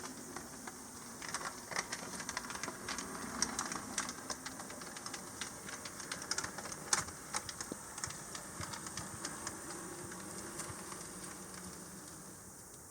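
HO-scale model Mikado steam locomotive running on its track: a low motor hum with many quick, irregular clicks from the wheels on the rails. It builds about a second in and fades near the end.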